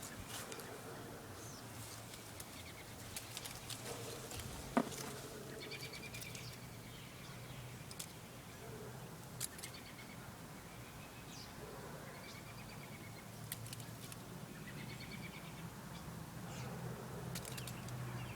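A baby bird cheeping: short arched chirps repeated every second or two, with scattered sharp clicks and a low steady hum underneath.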